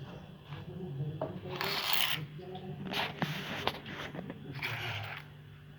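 Homemade jet engine's rotor being turned over in three short rasping bursts with a few sharp clicks between them, over a steady low hum. The rotor is stiff, which the builder puts down to a lack of lubrication.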